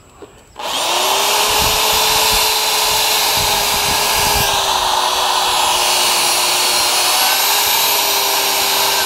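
Electric power drill starting up under a second in and running steadily at high speed, its motor whine holding one pitch, with a few low knocks in the first few seconds.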